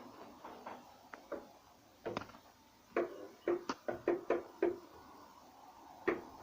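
A series of light knocks and taps from objects being handled: one about two seconds in, a quick run of about seven, then one more near the end.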